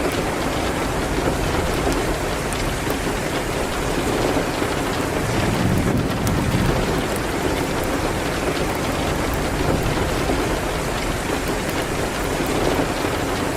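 Steady rain hitting a window, with a low rumble underneath and a few faint crackles from a wood fire in a fireplace.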